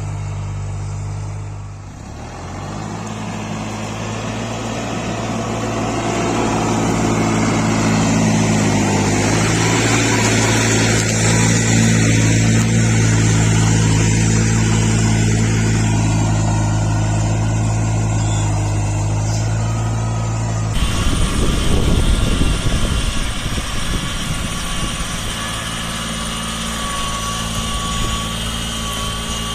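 Small tractor engines running steadily under load, from several clips in turn: the engine sound changes abruptly about two seconds in and again about 21 seconds in, the last part rougher and noisier.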